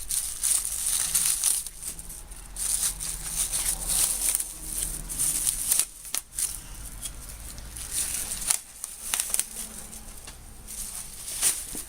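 A plastic bag crinkling and masking tape being torn and peeled off a freshly spray-painted vise part, in irregular crackling and rustling.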